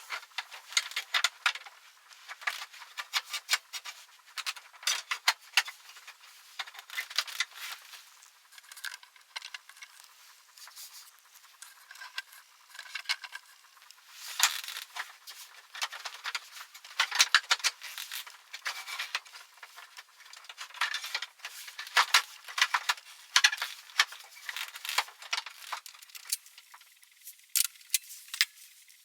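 Irregular clicks, clinks and rattles of small metal parts and tools being handled during scooter maintenance, coming in clusters with short pauses between.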